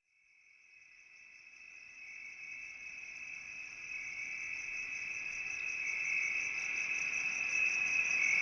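A steady, high-pitched insect trill, like crickets, fading in from silence and growing gradually louder.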